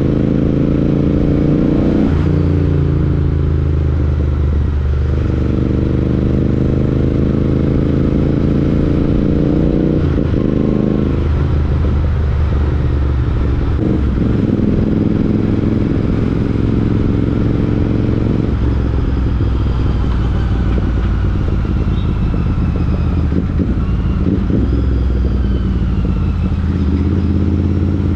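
Royal Enfield Interceptor 650's parallel-twin engine through an aftermarket Chris Michael exhaust, pulling up through the gears. The pitch rises under throttle and drops back at each shift several times, then settles into steadier running in the second half.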